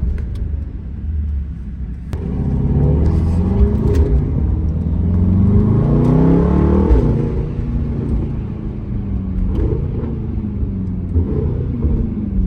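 Mercedes-AMG GT63 S twin-turbo V8 with a custom exhaust, heard from inside the cabin while driving. The engine pulls harder from about two seconds in, rising in pitch for several seconds. Just before the middle the pitch drops and the engine settles into steady cruising.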